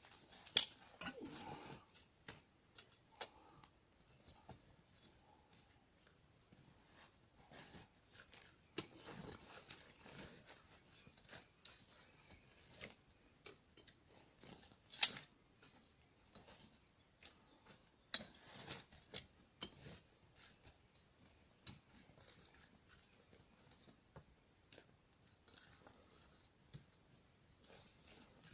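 Wood fire crackling, with irregular sharp pops, the loudest about half a second in and about fifteen seconds in, over a faint hiss.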